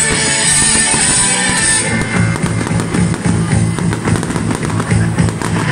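Loud rock-style music with fireworks going off over it: bangs and crackling, densest in the second half.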